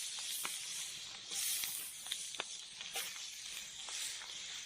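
Marinated pork ribs frying in hot oil in a frying pan: a steady sizzling hiss with sharp, irregular spitting pops.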